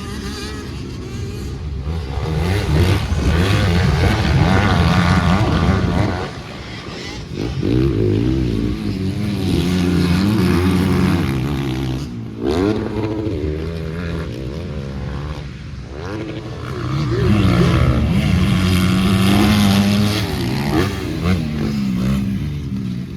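Motocross dirt bike engine under hard riding, revving up and falling back again and again as the rider goes on and off the throttle. There are long full-throttle pulls a couple of seconds in, around the middle, and near the end.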